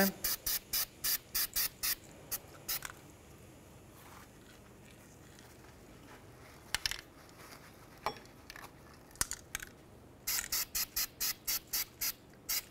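Aerosol anti-seize sprayed onto a wheel hub's mounting surface in rapid short bursts, about five a second. One run of bursts comes at the start, a second from about ten seconds in, with a few light handling clicks between.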